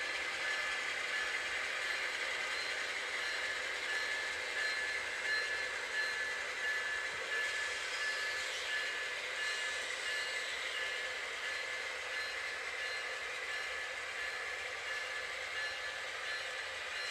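A train running on the tracks: a constant rolling noise throughout, with thin high-pitched tones pulsing on and off over it.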